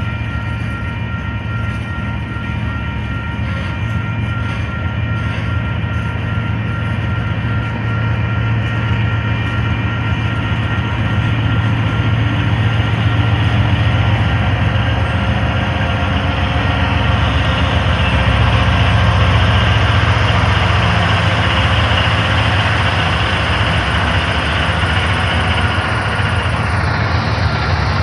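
Freight train of covered hopper cars rolling past with a steady rumble and rattle, growing louder about a third of the way in as the Union Pacific diesel locomotives come by.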